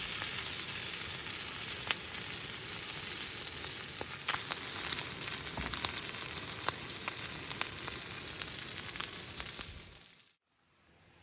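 Wood campfire crackling: a steady hiss with many sharp pops and snaps. It cuts off suddenly shortly before the end.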